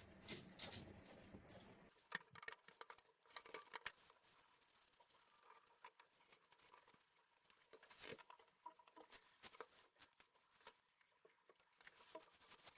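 Faint scattered clicks and rustles of small objects being handled, very quiet, with no steady running sound.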